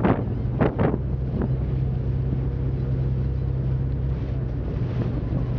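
A tour boat's engine running at a steady low hum, with wind buffeting the microphone; a few sharp gusts come in the first second.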